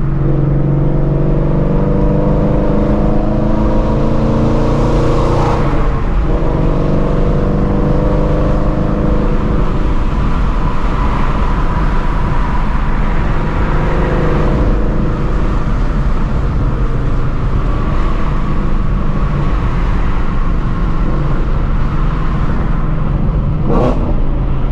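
2016 Ford Mustang Shelby GT350's 5.2-litre flat-plane-crank V8 with long-tube headers, under way. The revs climb, drop at a gear change about five and a half seconds in, climb again, then settle into a steady cruise over road noise.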